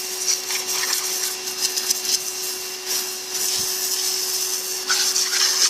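Pressure washer running, its jet spraying with a steady hiss and a constant hum from the machine as it rinses soap and dirt off a car.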